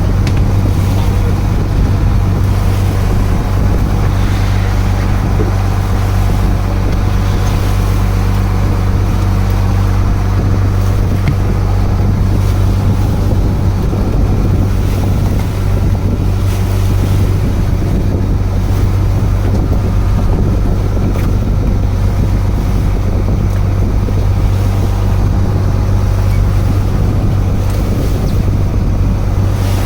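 A fishing boat's engine running with a steady low drone, with wind buffeting the microphone and water washing against the hull.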